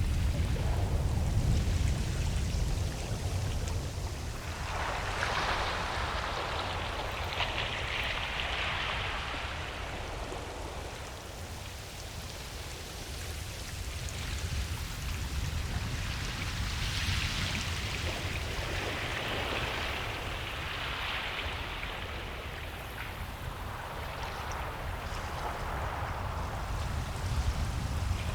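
Ocean waves washing onto a beach: surges of hiss swell and fade three times, over a steady low rumble of surf.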